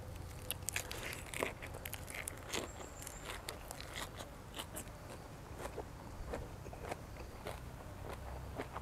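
Close-miked eating sounds: a person chewing and crunching food, with irregular crisp clicks and cracks throughout.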